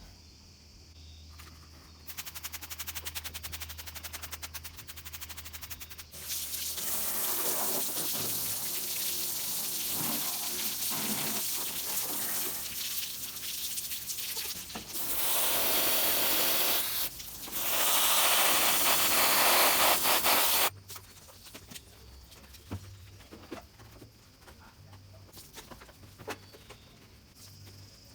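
Spray hissing steadily for about fifteen seconds, loudest in two stretches near its end and cutting off suddenly, after a fast run of clicks.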